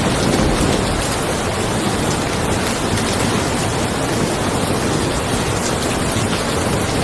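Steady rain falling on a car, an even hiss with a deep rumble underneath and fine drop ticks on top.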